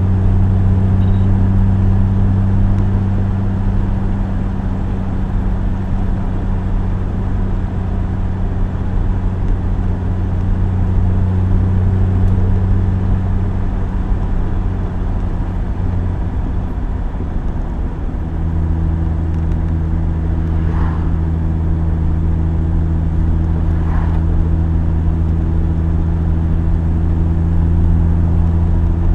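Classic sports car engine running steadily on the road, heard with road and wind noise. Past the middle its note breaks up for a few seconds, then settles at a slightly lower pitch.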